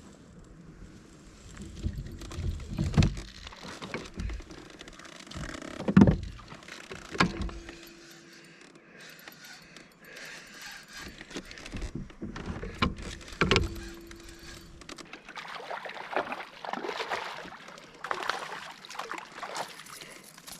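Scattered knocks and thumps on a fishing kayak's hull, with water sloshing and splashing around the boat in the last few seconds.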